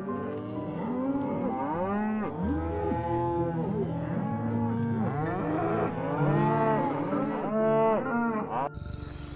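Several cattle mooing, long calls overlapping one another and rising and falling in pitch. The calls cut off abruptly near the end.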